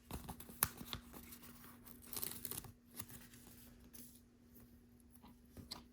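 A LEGO sticker being peeled off its paper backing sheet, with light papery rustling and small handling clicks that mostly die away after about four seconds.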